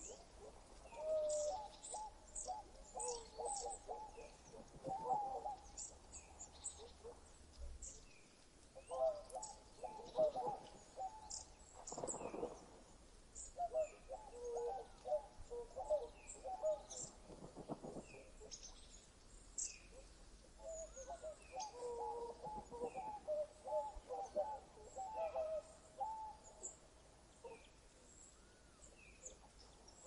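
Several birds calling: repeated bouts, each a couple of seconds long, of rapid low call notes, with scattered high thin chirps and a short downward-slurred call repeated about once a second.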